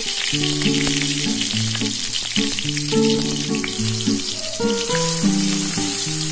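Ground spice paste sizzling and crackling in hot oil in a wok as a metal spatula stirs it. Background music with plucked notes plays along.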